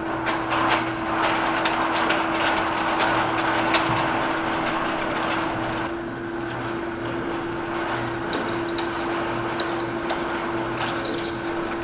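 Steady low hum under a hiss, with scattered knocks and clatters.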